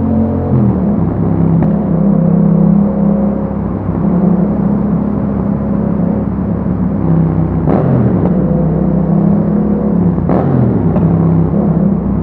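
Yamaha MT-07's parallel-twin engine running through an Akrapovic exhaust under way. The note holds steady, then drops sharply twice, about 8 and 10 seconds in, each time with a short rasp.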